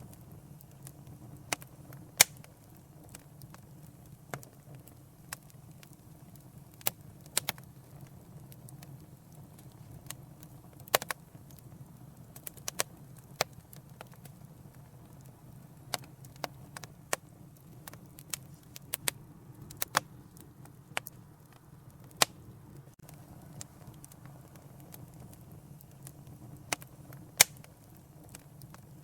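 Wood fire burning in a fireplace: a soft steady rumble of flames with irregular sharp crackles and pops from the burning logs, a few of them much louder than the rest.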